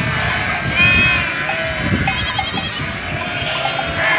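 A herd of goats bleating, many calls overlapping, with one loud call about a second in and a quavering call a second later.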